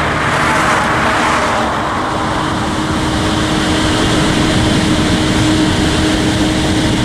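Freight train rolling past: a steady rumble and wheel-on-rail noise with a constant hum underneath.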